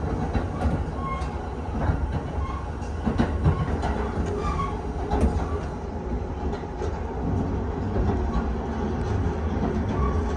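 Vista Car limited express train running, heard from inside its onboard toilet compartment. A steady low rumble of the running gear carries scattered clicks and light squeaks and rattles.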